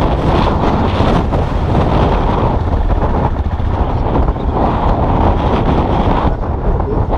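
Motorcycle engine running steadily on the move, mixed with wind and road noise on the camera microphone.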